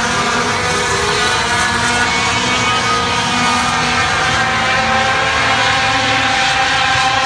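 Race truck engines running around the oval track, a loud steady drone of several engines with pitches that rise and fall slowly as the trucks circulate.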